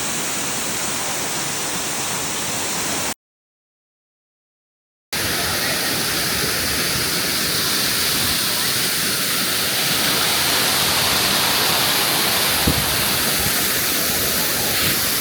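Waterfall rushing, a steady wash of falling water. It cuts out to dead silence for about two seconds a few seconds in, then comes back slightly louder.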